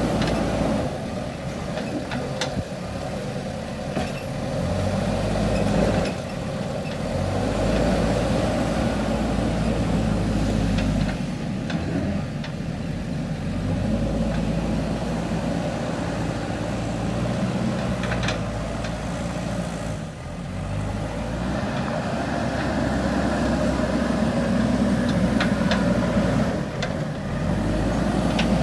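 Diesel engine of a JCB 3DX backhoe loader running under working load, its speed rising and falling every few seconds as the hydraulics dig and lift soil. A few short metallic clanks come through over it.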